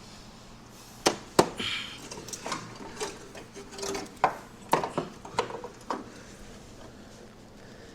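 Metal tools and parts clanking and rattling as they are handled, a string of sharp knocks from about a second in until about six seconds in.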